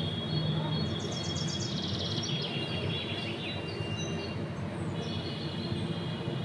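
Small birds chirping, with a quick trill about a second in and high whistled notes again near the end, over a steady low background hum.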